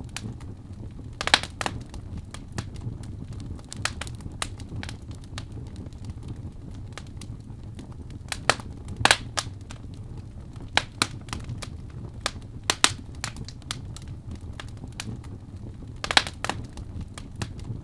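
Wood fire in a fireplace crackling, with irregular sharp pops over a low steady rumble of flame. The loudest pops come about a second in, around nine seconds in, and near the end.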